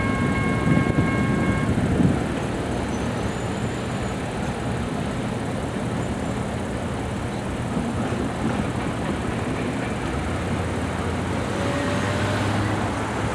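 Rumble and clatter of a BNSF freight train passing a grade crossing, fading into steady road-traffic noise. A steady high tone stops about two seconds in.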